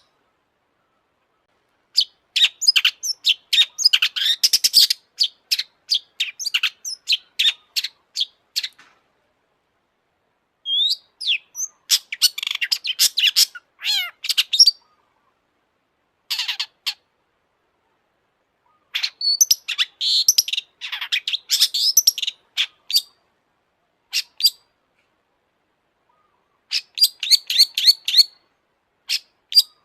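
Long-tailed shrike (cendet) singing in phrases of rapid, scratchy high notes, each a few seconds long, broken by silent pauses of one to two seconds.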